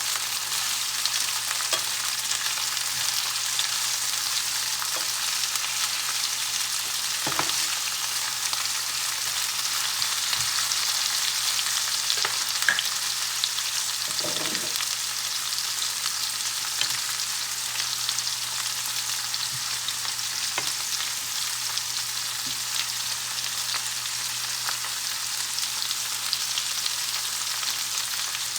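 Sliced onion and green and red bell peppers sizzling steadily in a hot pan, with occasional faint clicks of stirring.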